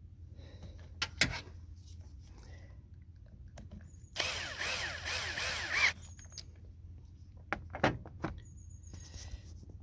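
A power tool runs in one burst of under two seconds near the middle, spinning down a 10mm nut holding the new vacuum turbo solenoid valve. A few sharp clicks and knocks of tools come before and after it.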